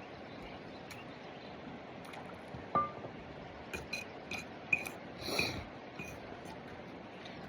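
Eating utensils clinking against a dish: one ringing clink nearly three seconds in, then a quick run of lighter clinks and scrapes over the next few seconds, over a steady background hiss.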